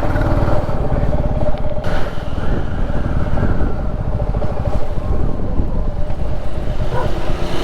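Royal Enfield Classic 350's single-cylinder engine and exhaust running steadily while the motorcycle is ridden, its firing pulses coming thick and even.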